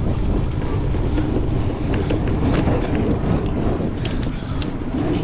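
Wind buffeting the microphone while a cyclocross bike is raced, a dense low rumble with a few sharp clicks scattered through it.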